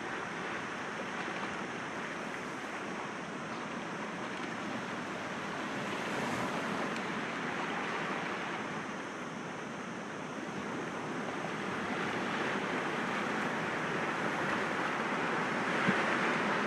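Sea waves breaking gently against rocks, a steady wash of surf that swells and eases, growing louder over the last few seconds.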